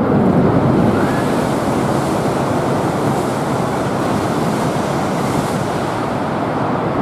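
Tohoku Shinkansen train running past at speed: a loud, steady rush of air and running noise that swells in at the start and holds.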